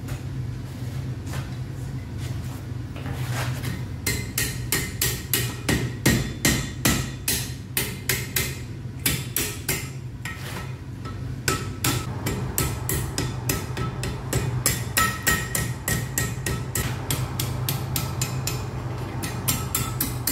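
Blacksmith's hammer striking iron on an anvil. A few scattered blows give way to a fast, even run of about three strikes a second with a ringing tone, broken by a short pause about ten seconds in before the hammering resumes. A low steady hum runs underneath.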